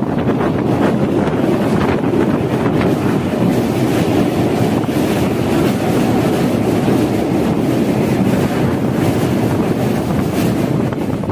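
Steady rumble of a passenger train running over a steel river bridge, with wind buffeting the microphone at the open carriage door.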